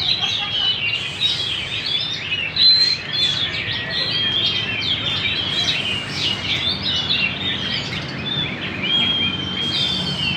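White-rumped shama (murai batu) singing without pause, a rich varied song of clear whistles, quick chips and rapid sweeping trills, with now and then a held steady whistle.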